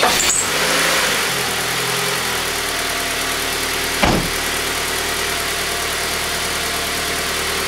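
Car engine idling just after start-up, its revs dropping over the first couple of seconds and then settling to a steady idle, with one short knock about four seconds in. It is a healthy engine pulling a steady 20 inches of mercury of manifold vacuum.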